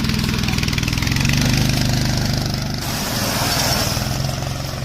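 Small gasoline engine of a miniature vehicle running at high revs under way, dropping in pitch about three seconds in and fading near the end.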